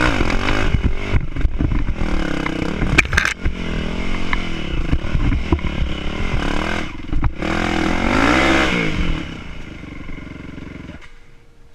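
Enduro dirt bike engine revving up and down repeatedly while riding off-road, with some rattling and clatter. The engine sound fades away near the end.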